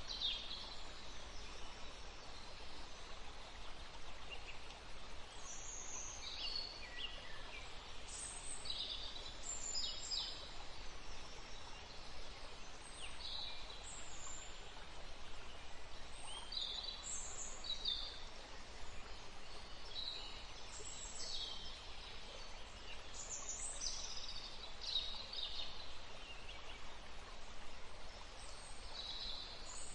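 Woodland stream running steadily, with birds chirping in short, high notes again and again over the water.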